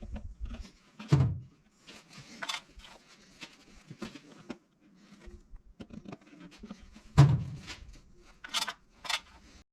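A series of irregular knocks and thuds, the two loudest and deepest about a second in and about seven seconds in, with lighter clicks and knocks between and near the end, like parts or tools being handled.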